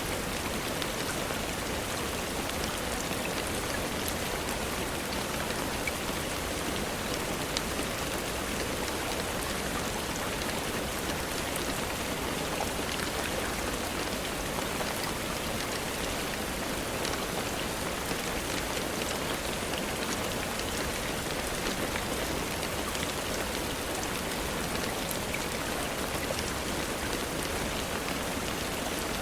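Steady rainfall: an even, unbroken hiss with scattered small drop ticks.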